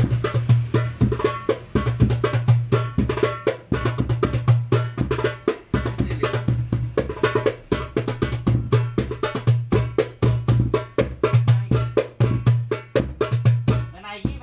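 9-inch darbuka with a Remo mica head played in a fast, dense rhythm: low ringing bass (doum) strokes mixed with sharp, dry rim (tek/ka) strokes, several to the second. The playing stops right at the end.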